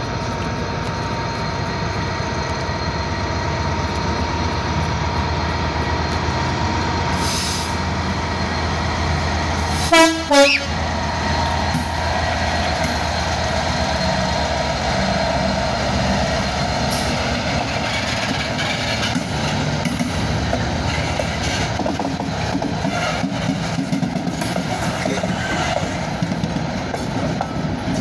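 Two Class 66 diesel locomotives running past under power at the head of a freight train, with two short horn blasts about ten seconds in. Later the loaded flat wagons roll by, wheels clicking over the rail joints.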